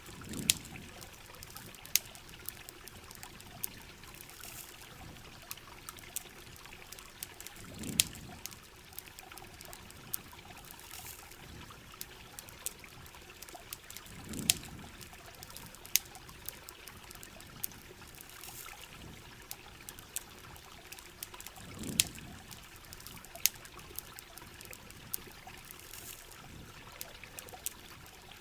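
Steady rain and running water with sharp campfire crackles and pops every second or two. A low swelling rush comes back about every seven seconds.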